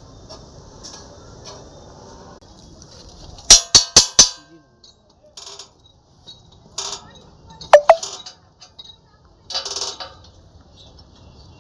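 Metal tools clinking and striking against steel during a tractor bumper fitting: four quick, sharp strikes about three and a half seconds in, then scattered clinks, a loud ringing clang near eight seconds and a short rattle.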